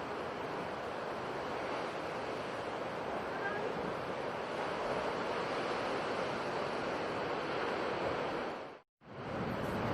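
Sea surf washing steadily, a continuous rush of wave noise. It drops out to silence for a split second about nine seconds in, then resumes.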